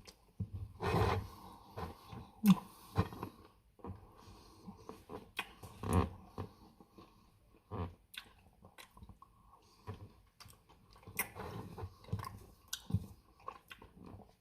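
Close-up mouth sounds of a person eating Dairy Queen Reese's Blizzard ice cream cake: chewing with irregular wet clicks and lip smacks, louder about a second in and around six seconds in.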